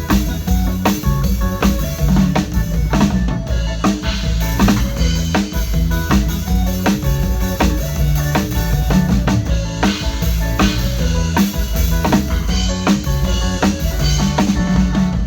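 A live band playing during a sound check: a drum kit keeping a steady beat with bass drum, snare and rimshots, over sustained pitched instrument notes.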